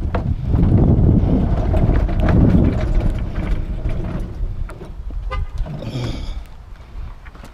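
Knocks and rattles of a wheeled scrap item being handled and pushed into a truck, over heavy wind rumble on the microphone. A short rapid rattle comes about five seconds in.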